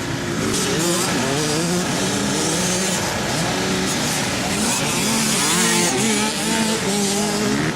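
Several motocross bikes racing, their engines revving up and down, several pitches rising and falling over one another as the bikes accelerate and ease off around the track.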